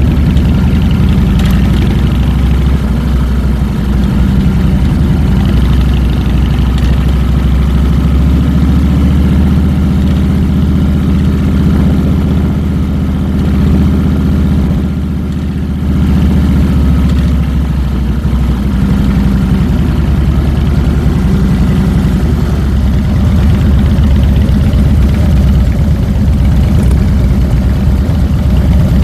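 Harley-Davidson 2007 Fat Boy's Twin Cam 96 V-twin engine running steadily, with a deep low exhaust note; the level dips briefly about halfway through.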